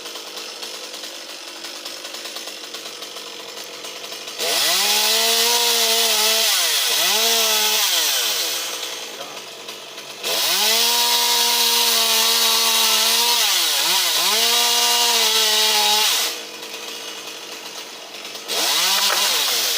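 Two-stroke chainsaw revved to full throttle in three long bursts, dropping back to a quieter run between them. Its pitch dips several times under load as the chain cuts into the wood.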